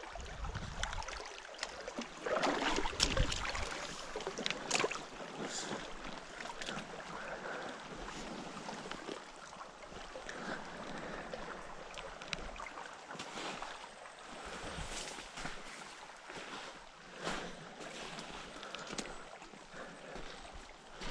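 Footsteps and rustling of someone walking outdoors, as irregular crunches and scuffs over a steady background hiss.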